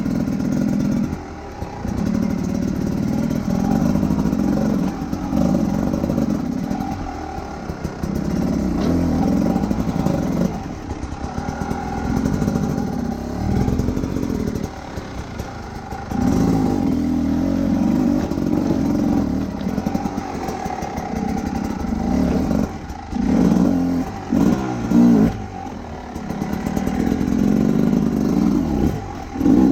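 Motorcycle engine pulling under load while riding. It rises and falls again and again as the throttle opens and closes, with short dips between pulls.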